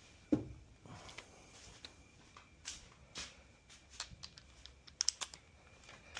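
Scattered light clicks and taps of hand tools and engine parts being handled, with a soft knock about a third of a second in and a quick cluster of clicks near the five-second mark.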